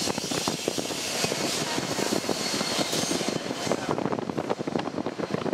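Double-stack intermodal container cars of a freight train rolling past: a steady rumble and hiss of steel wheels on the rails, with many rapid, irregular clacks and knocks from the wheels over the track.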